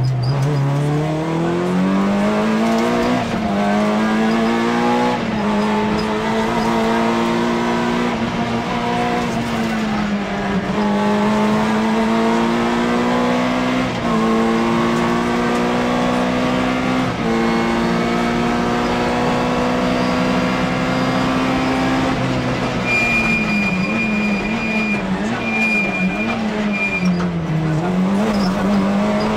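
Rally car engine at full throttle, heard from inside the cockpit: the revs climb through two quick upshifts in the first five seconds, then hold high and nearly steady with a few brief gear changes, before dropping and climbing again through bends near the end. A thin high-pitched squeal comes in short stretches near the end.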